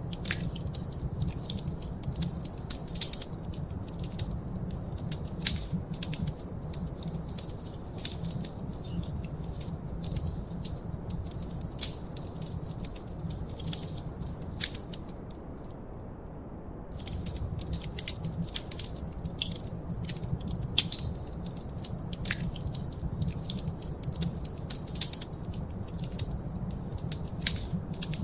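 Wood fire in a fireplace crackling, with irregular sharp pops over a steady low rumble. The crackles stop for about a second halfway through, then resume.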